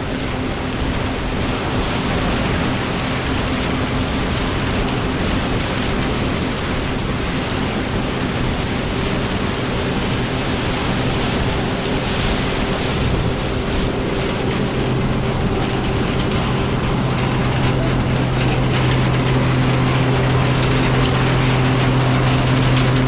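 John Deere 9560 straw-walker combine running steadily while harvesting corn: a dense mechanical roar with a steady low engine hum. The hum grows stronger about two-thirds of the way through as the overall level rises slightly.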